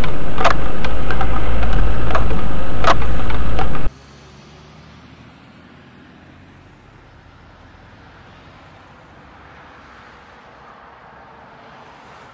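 Car engine and road noise picked up by a dashcam, very loud with a few sharp clicks, cutting off abruptly about four seconds in to a much fainter, steady rushing road noise.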